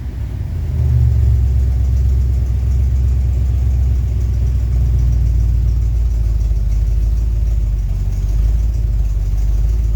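Car engine idling steadily, with a slight rise in revs about a second in. No squeal from the V-belt: the belt no longer slips.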